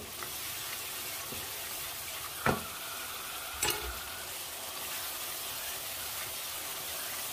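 Tomato and spice masala sizzling steadily in hot oil in a nonstick frying pan as it is stirred and roasted (bhuna) with a wooden spoon. The spoon knocks against the pan twice, about two and a half and three and a half seconds in.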